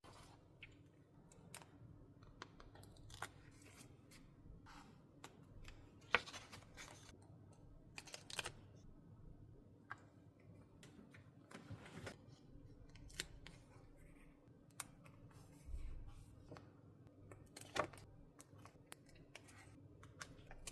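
Scissors snipping and paper being handled, a scattering of faint short snips and rustles with a few louder strokes.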